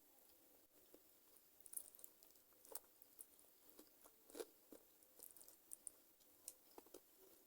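Quiet, close-miked chewing of chicken feet: irregular wet clicks, crackles and small crunches as skin and cartilage are bitten and chewed.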